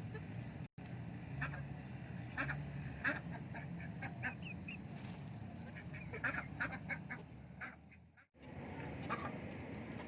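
Domestic ducks quacking, short calls coming every second or so over a steady low background rumble; the sound cuts out completely twice, briefly.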